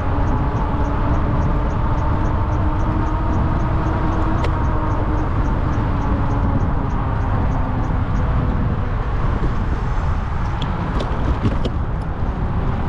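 Ride noise from an electric bike: a low, steady rumble of wind and traffic with a hum that slowly falls in pitch over the first half. A light, even ticking of about three a second stops about eight seconds in, and a few sharp clicks come near the end.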